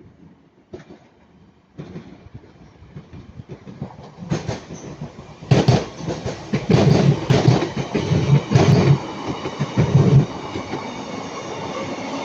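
A pair of Class 156 diesel multiple units passing close by. Their wheels clatter over rail joints in quick succession, loudest between about 4 and 10 seconds in, then give way to a steadier hum as the train runs on.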